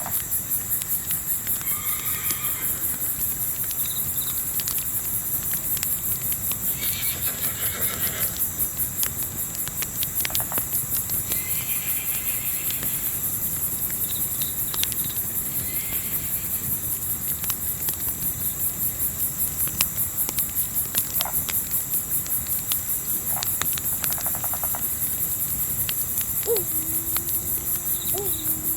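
A steady, fast-pulsing chorus of crickets, with sharp crackles of a wood campfire and scattered brief bird chirps. Near the end a low call slides down and then holds.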